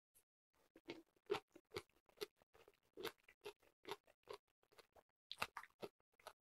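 Close-miked chewing of a mouthful of kimchi with the mouth closed: soft, wet, crunchy clicks at a steady pace of a little over two a second, with a few sharper clicks about five seconds in.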